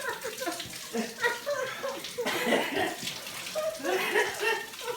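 Laughing and wordless voice sounds from people in pain from the pepper, over a steady rush of running water.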